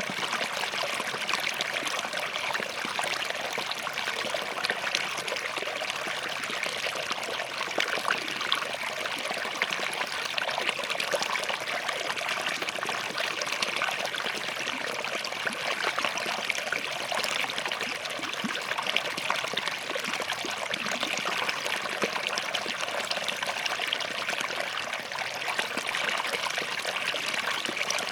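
Small forest stream running over and between rocks, a steady babbling and trickling with fine splashes.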